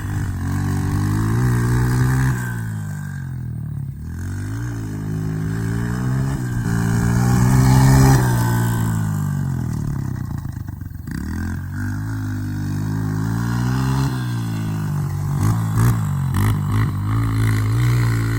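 Dirt bike engine revving as it is ridden, its pitch climbing and then dropping back again and again as the rider works the throttle and shifts. It is loudest about halfway through and eases off briefly just before two-thirds of the way in.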